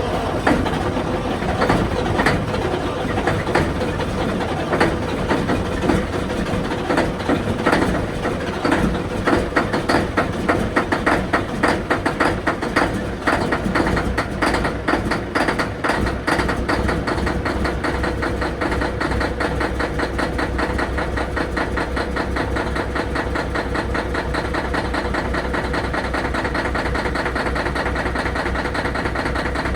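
Caterpillar C15 inline-six diesel in a Kenworth W900L idling just after a cold start: uneven, irregular pulsing for the first half, then settling into a steady, even idle about halfway through.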